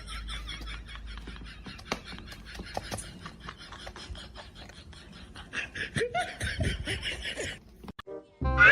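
People laughing, with scattered clicks and knocks.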